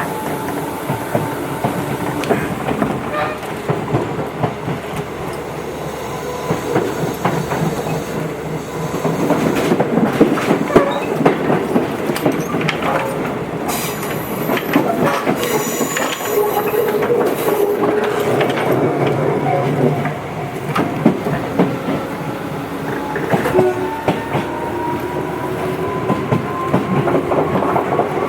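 Tobu 8000-series electric train running, heard from inside the car: a steady rumble with wheels clattering over rail joints. About three-quarters of the way through, the traction motors' whine starts to rise in pitch as the train picks up speed.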